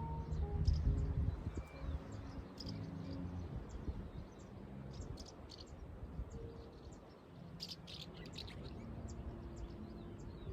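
Birds chirping outdoors in short, high, scattered calls, with a thicker cluster of chirps about eight seconds in.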